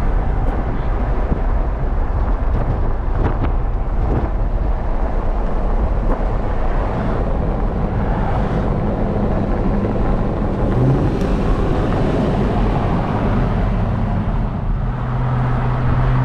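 Steady rush of road and wind noise from a car driving at highway speed, with a low engine hum underneath.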